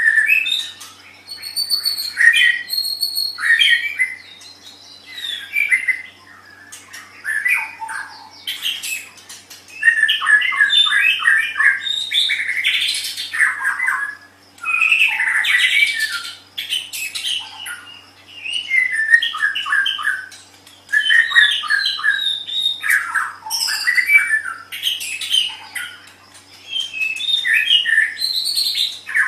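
White-rumped shama (murai batu) singing a long, varied song: phrases of whistled notes and fast runs of repeated notes, broken by short pauses.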